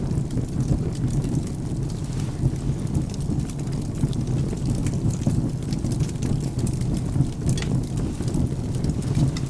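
Fireplace and rainstorm ambience: a steady low rumble of rain and thunder, with scattered sharp crackles of burning firewood.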